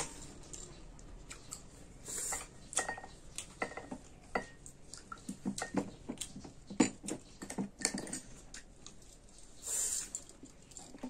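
Close-up eating sounds of wild olive (heiyai) fruit being bitten and chewed, many small wet clicks and crunches. Light clinks of a metal spoon against glass bowls come in between.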